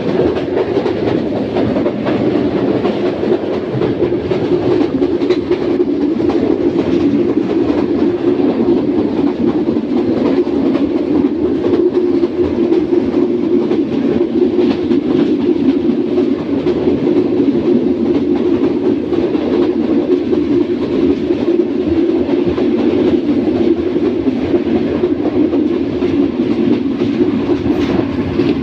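Passenger train coaches running at speed over the rails: a loud, steady track rumble with faint irregular clicks of the wheels over rail joints.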